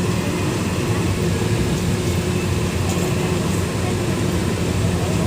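Steady running noise of a moving passenger train heard from inside the carriage: a constant low rumble with a faint steady hum.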